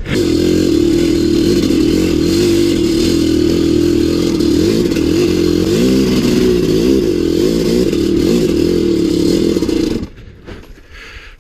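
Maico 700's two-stroke single-cylinder dirt bike engine running at low revs, its pitch rising and falling with the throttle, then cutting out about ten seconds in.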